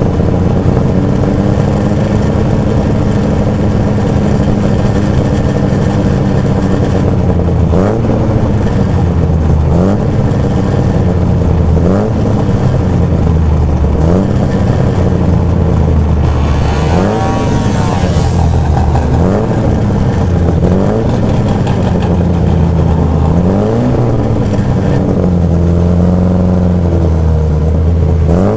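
MGA Twin Cam's twin-overhead-cam four-cylinder engine idling, then blipped over and over, the revs rising and falling every couple of seconds, with one higher rev just past the middle.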